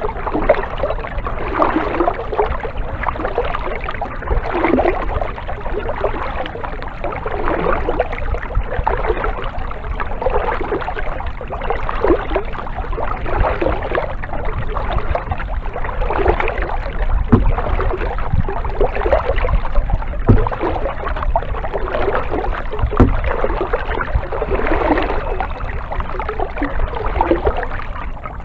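Kayak paddle strokes: the blades dip and pull through the water with splashing and dripping in a steady rhythm, about one stroke every second or so. There are a few light knocks partway through.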